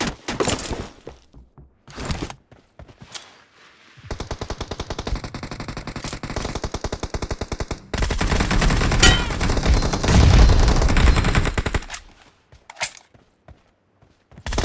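Video-game automatic gunfire: a few scattered shots, then from about four seconds in a long stretch of rapid machine-gun fire that gets louder around eight seconds in and stops at about twelve seconds, with one more brief shot shortly after.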